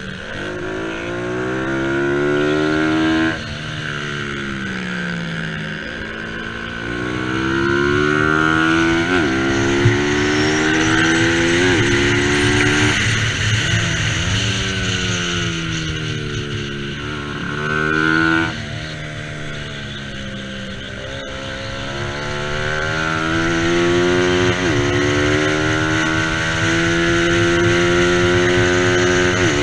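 Bajaj Pulsar 200 NS single-cylinder motorcycle engine at racing speed, revving hard. Its pitch climbs repeatedly under acceleration, cuts off sharply and winds down for corners, then climbs again.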